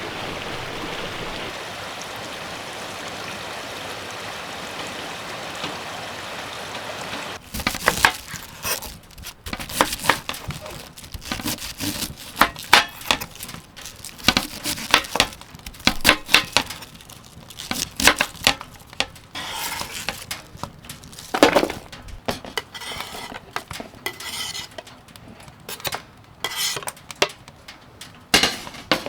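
Food sizzling in a pan, a steady hiss, then from about seven seconds in a metal utensil repeatedly clinking and scraping against cookware as something is stirred.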